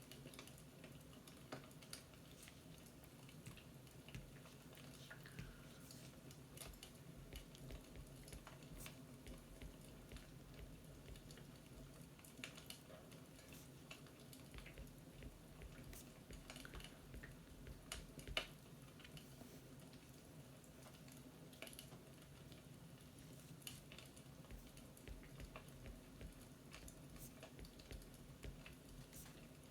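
Faint fireplace crackling: scattered, irregular small pops and snaps over a steady low hum, one pop a little louder about two-thirds of the way through.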